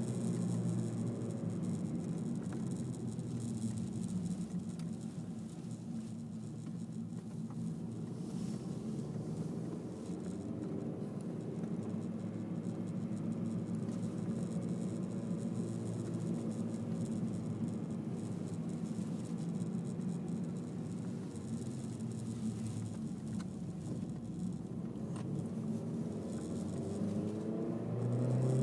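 Honda Civic 1.8 i-VTEC four-cylinder engine and tyre noise heard from inside the cabin while driving. The engine note holds steady, then rises in pitch and gets louder near the end as the car speeds up.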